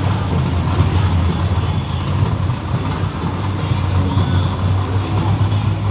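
Monster truck engines running steadily at idle just after being started, a low, even engine note.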